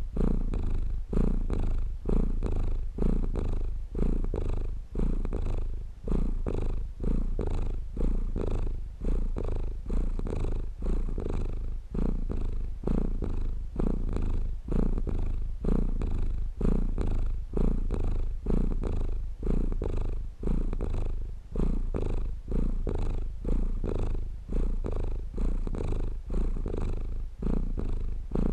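Domestic cat purring steadily, a low continuous rumble that swells and dips about once every second or so with each breath in and out.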